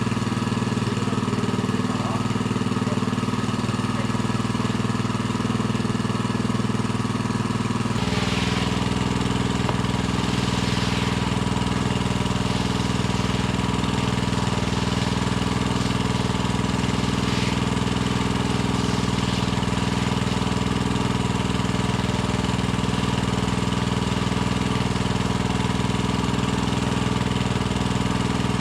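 A small engine running steadily, its note changing abruptly about eight seconds in.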